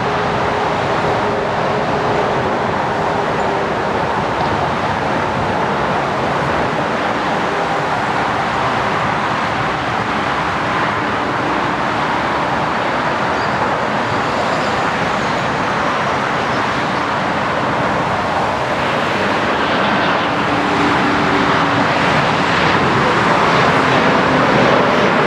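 Twin General Electric CF34 turbofans of an Embraer E190 airliner running, a steady jet noise that grows slightly louder near the end.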